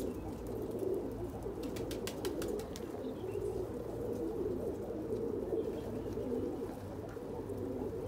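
Many domestic pigeons cooing together in a loft in a steady, overlapping murmur, with a brief run of light clicks about two seconds in.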